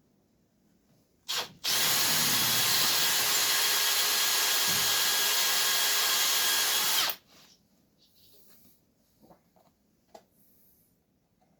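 Electric power drill with a 6 mm bit boring into a seized steel bolt, widening a 3 mm pilot hole so the bolt can be drilled out and extracted. A short blip on the trigger about a second in is followed by a steady run of about five seconds that stops abruptly.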